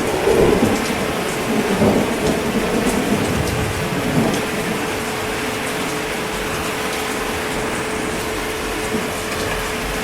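Steady heavy rain, with a thunder rumble in the first few seconds that dies away.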